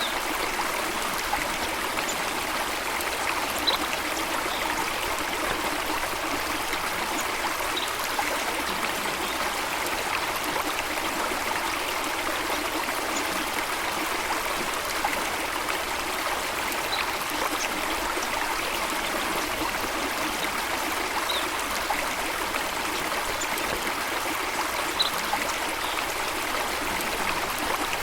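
Steady running water, a continuous stream or waterfall rush, with a few brief faint high peeps scattered over it.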